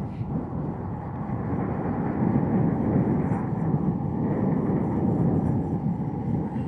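Dongdo S8 electric bike under way: a steady rumbling ride noise that grows louder about two seconds in.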